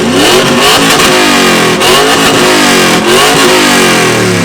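2001 Chevrolet Camaro's engine revved hard through its exhaust, very loud: the pitch climbs at once, dips and climbs again twice, and falls off near the end.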